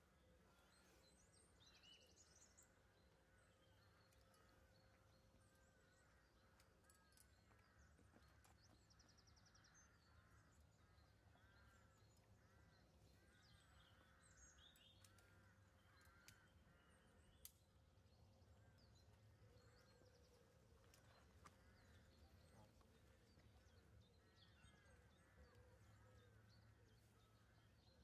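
Near silence with faint birdsong: many short repeated chirping notes and a few higher calls, plus a couple of soft clicks past the middle.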